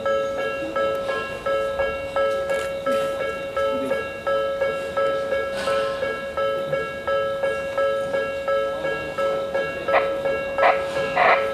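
Japanese railway level-crossing warning bell ringing, an electronic ding repeating about twice a second. Near the end a few sharp clacks sound over it.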